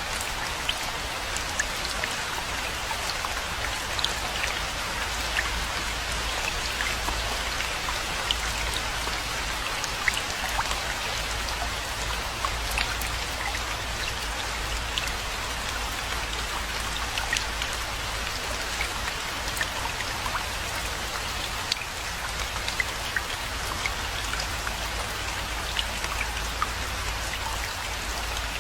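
Steady rainfall, with many separate drops tapping sharply throughout over an even patter, and a low steady rumble underneath.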